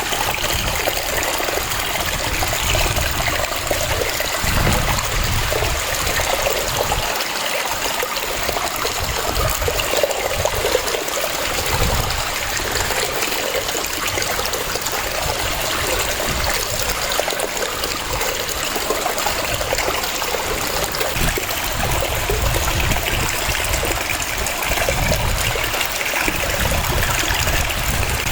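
Waterfall: a steady rush of falling water with a fluctuating low rumble beneath it.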